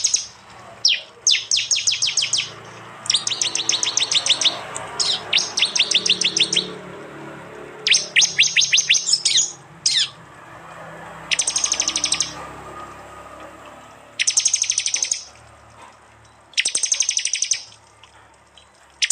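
Prinias (prenjak) giving their rapid-fire 'tembakan' call: bursts of fast, sharp repeated high notes, each burst about a second long, coming about every one to two seconds.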